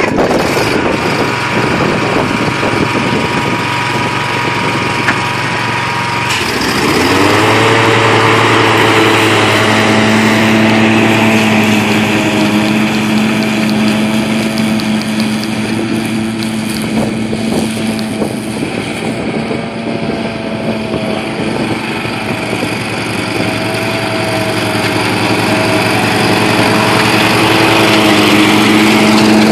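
Kawasaki FS600V V-twin engine of a Wright stand-on mower running. It revs up about six seconds in, then runs steadily at the higher speed.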